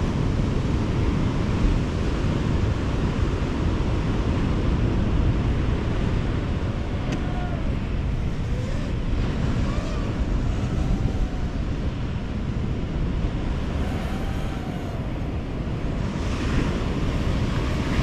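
Wind buffeting the microphone over surf. About six seconds in, a faint buzzing whine from an FPV drone's motors starts to rise and fall in pitch several times, fading out near the end.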